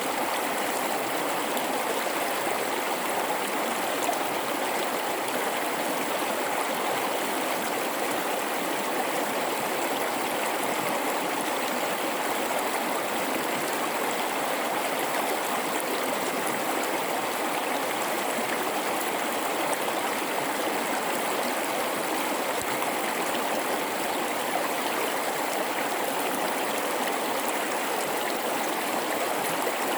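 A mountain river running over rocks in a gorge: a steady rush of flowing water with gurgling, no change through the stretch.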